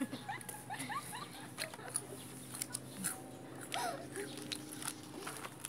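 Eating sounds close to the microphone: chewing and mouth clicks in short scattered bursts, with small quick squeaky glides, over a faint steady low hum.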